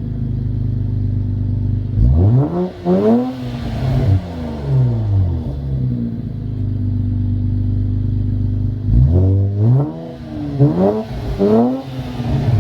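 Infiniti Q60's 3.0-litre twin-turbo V6, fitted with HKS resonated lower downpipes and an aFe cat-back exhaust, idling steadily with short throttle blips. A rev climbs and falls about two seconds in, then idles again, and three quick revs come in a row near the end.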